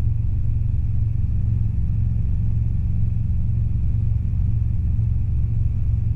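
Robinson R22 helicopter in flight, heard inside the cabin: a steady, loud low rumble of engine and rotor noise that holds even throughout, without change, during the climb-out.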